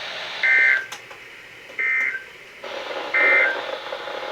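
Emergency Alert System end-of-message data bursts: three short, buzzy digital tone bursts about a second apart, sent after the spoken warning to signal that the alert is over.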